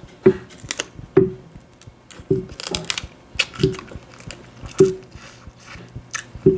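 Close-miked eating of a seafood boil: wet chewing and mouth smacks with sharp clicks and crunches, recurring about once a second.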